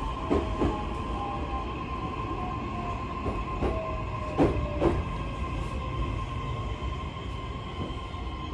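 Interior running sound of a JR East E131-1000 series electric train between stations: steady rumble of wheels on rail with a motor whine, some of it drifting slowly lower. Three pairs of wheel knocks over rail joints, the loudest pair about halfway.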